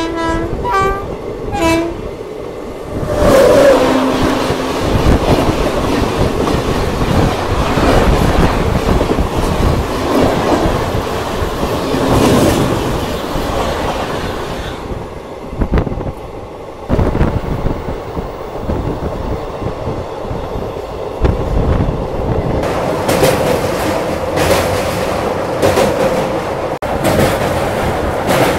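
A train horn sounds several short notes, then a train passing close on the neighbouring track makes a loud rush and clatter for about ten seconds. After it has gone, the passenger train's wheels keep clattering steadily over the rail joints.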